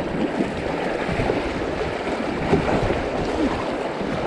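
Fast-flowing river in high water, rushing and splashing around kayaks, with irregular short splashes throughout.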